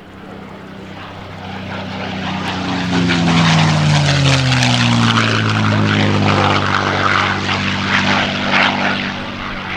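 P-51D Mustang's Merlin V-12 engine and propeller on a low pass, building to loudest as it goes by, the engine note dropping in pitch as it passes, then fading away.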